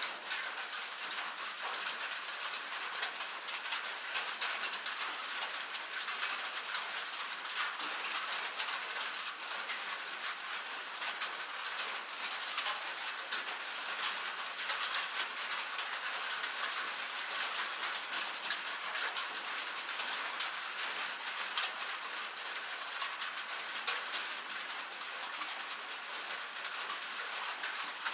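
Steady rain falling on a metal roof: a dense, even patter of drops with many sharp individual ticks standing out through it.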